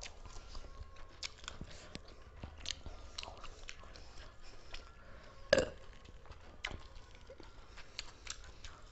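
People chewing and biting food fast, with many small crunches and mouth clicks, and one much louder sharp knock about five and a half seconds in.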